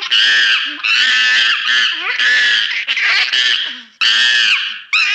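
A monkey screeching: a quick series of loud, high-pitched screams, each under a second long, one after another with short breaks.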